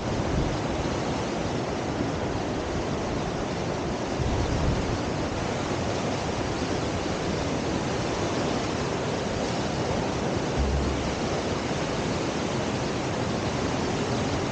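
Steady rush of a river's standing surf wave, whitewater churning without letup, with brief low wind buffets on the microphone about four seconds in and again near eleven seconds.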